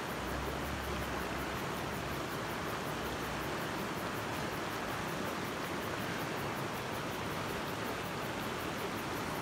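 Steady rushing of a creek's flowing water, an even noise with no distinct events.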